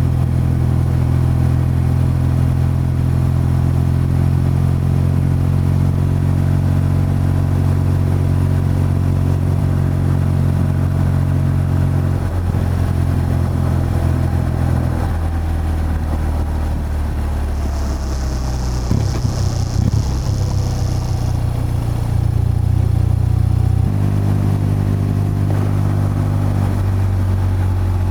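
BMW R12's boxer-twin engine and exhaust running while riding, mostly at a steady note, with the engine note stepping to a new pitch a few times and a rougher, uneven stretch a little past the middle.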